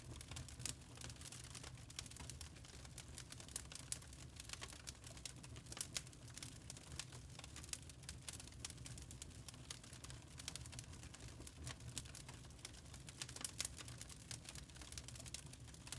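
Burning charcoal crackling: a dense, continuous run of small sharp pops and snaps over a low steady rumble, with a few louder pops here and there.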